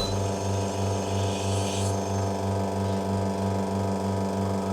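LaCimbali espresso machine's pump running during a shot extraction: a steady, slightly pulsing hum, with a faint hiss of water flow in the first couple of seconds.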